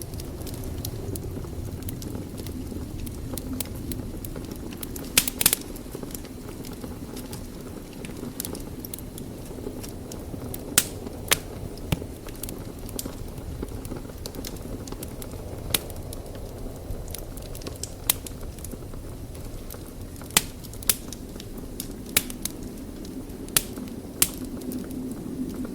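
Wood fire burning in a fireplace: a steady low rumble with constant light crackling, and about a dozen sharper pops scattered throughout.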